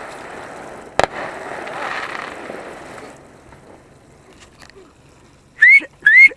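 Fireworks: a sharp bang about a second in, then a crackling hiss that dies away, and near the end two short, loud rising whistles, like a whistling firework going off close by.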